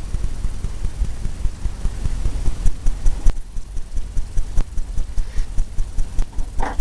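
Paintbrush tapping repeatedly against a stretched canvas, a quick run of dull low thuds several times a second, with faint ticks.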